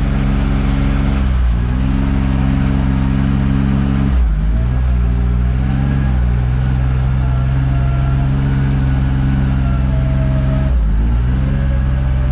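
Engine of an off-road vehicle running hard and steadily, its pitch sagging and recovering briefly three times as the load changes.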